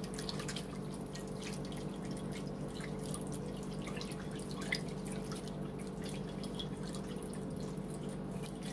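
Wire whisk stirring cornstarch slurry into cooking juices in a slow cooker crock: light, irregular clicks and liquid splashing, thickening the gravy. A steady low hum runs underneath.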